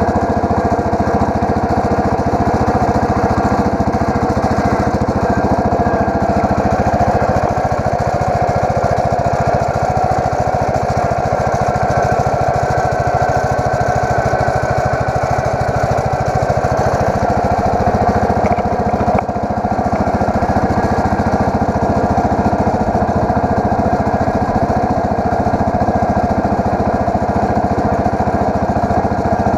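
Allis Chalmers 716H garden tractor's engine running steadily, with a brief dip a little past halfway.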